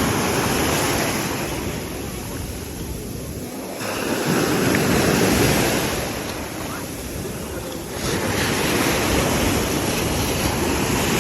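Ocean waves breaking and washing on the shore, surging loudly about four seconds in and again about eight seconds in, with wind buffeting the microphone.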